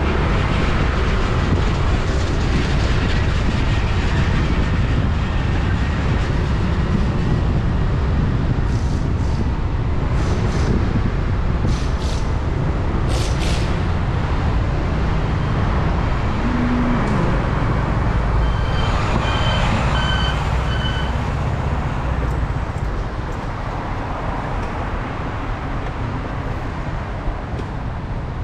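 Wind rushing over a helmet-mounted camera and motor scooter engine and road noise while riding. A few short high beeps sound about two-thirds through, and the noise eases off near the end as the scooter slows.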